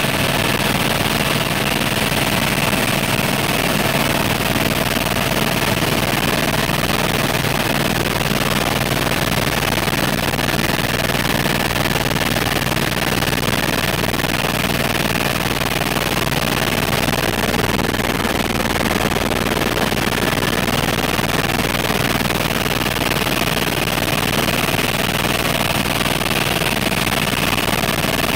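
Helicopter engine and rotor running steadily in flight, heard from aboard. There is a fast, even low thudding from the rotor blades under a constant mechanical whine made of several steady tones.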